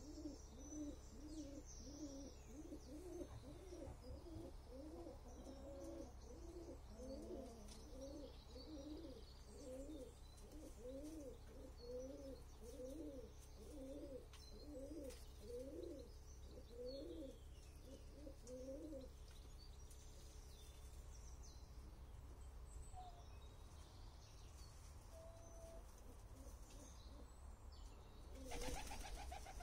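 A bird cooing in a long run of low, even, repeated coos that stops about two-thirds of the way through, with faint chirps above it. Near the end comes a short rattling burst of feathers from the displaying peacock shaking its raised train.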